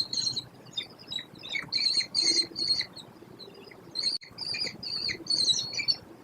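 Birds giving high, rapid chirping calls in repeated bursts, with a brief pause a little past the middle.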